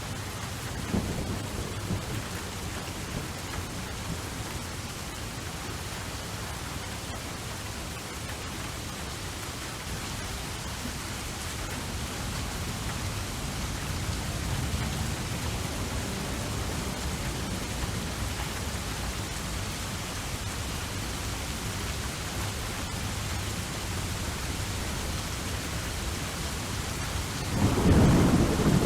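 Steady rain falling, with rolls of thunder: a low rumble about a second in and a louder one near the end.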